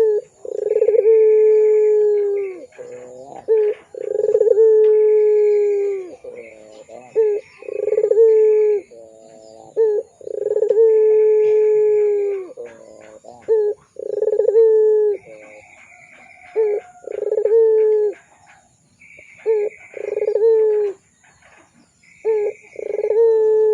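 Puter pelung (domestic turtle dove) calling steadily in a series of long, drawn-out coos, each one to two seconds long and dipping slightly in pitch at the end, with short breaks between them.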